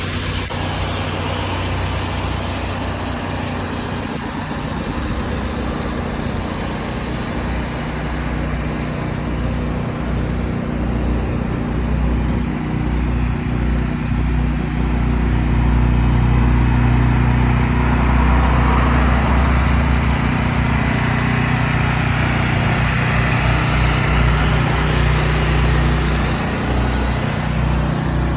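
Big truck's engine running steadily as it drives, with road and traffic noise; it grows louder about halfway through.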